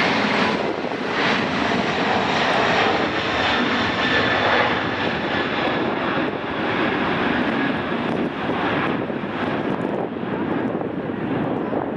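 Boeing 747-400 jet engines at takeoff thrust as the airliner climbs away: a loud, steady rushing rumble that eases slightly near the end.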